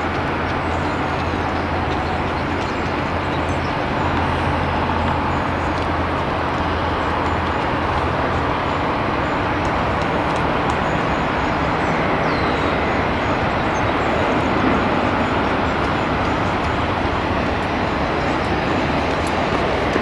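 Amtrak passenger train with a diesel locomotive approaching: a steady rumble of engine and wheels on rails that grows slightly louder.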